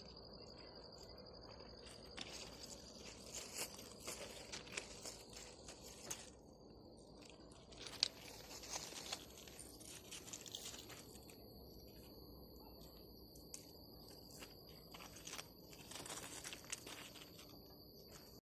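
Faint, steady high-pitched chirring of crickets, which drops out for a few seconds in the middle and comes back. Scattered soft crunching and rustling clicks sound over it.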